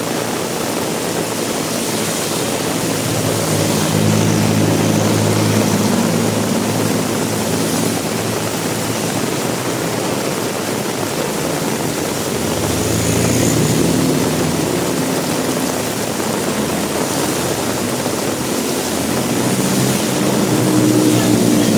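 Heavy rain falling steadily, with the engine hum of vehicles passing by that swells and fades three times, about a third of the way in, around the middle, and near the end.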